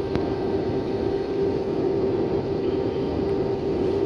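Cabin noise of an Airbus A320-233 descending on approach, heard from a window seat: a steady rush of airflow and hum from its IAE V2500 engines, with a steady droning tone. A brief click sounds just after the start.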